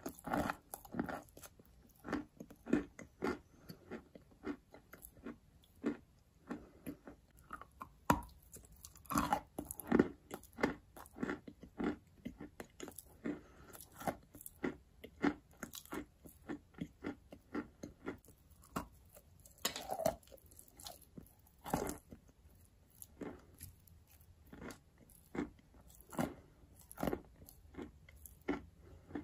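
A person chewing chalk: a steady run of crisp crunches, irregular at about one or two a second, with a few louder bites about ten and twenty seconds in.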